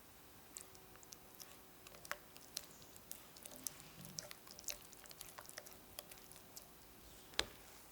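Irregular light clicks and small wet taps of kitchen food preparation, a few each second, with one louder knock near the end.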